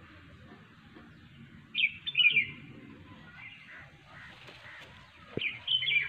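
A small bird chirping in two short bursts of quick, high calls, about two seconds in and again near the end.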